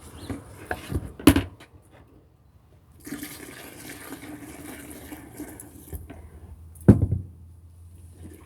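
Water running from a tap into a sink, with two sharp clunks, about a second in and again about seven seconds in.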